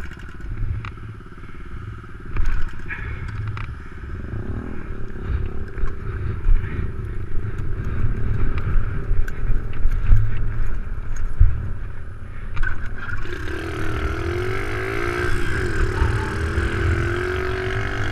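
Small Honda minibike engine running as it is ridden, with wind buffeting the microphone. In the last few seconds the engine note grows stronger, and its pitch falls and rises with the throttle.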